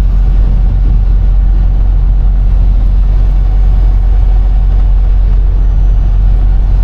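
Steady low drone of a semi truck's engine and road noise heard from inside the cab while driving.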